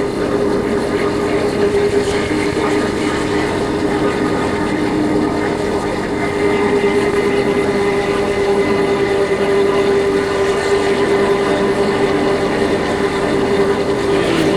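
Yamaha Factor 150's single-cylinder four-stroke engine running steadily at cruising speed, with wind noise over the microphone.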